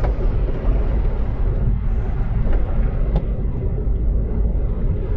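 Car driving on a snow-covered road, heard from inside the cabin: a steady low rumble of engine and tyre noise, with a few faint ticks.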